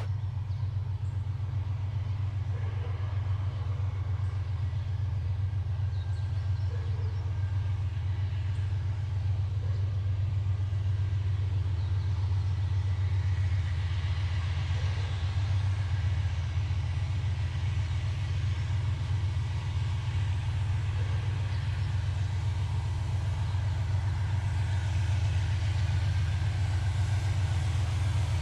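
A large engine idling with a steady, low, even drone that does not change.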